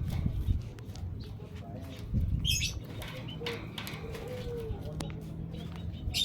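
Small cage birds moving about in their cage: wing flutters and light taps of hopping on perches and bars, with a short high chirp about two and a half seconds in and another at the end.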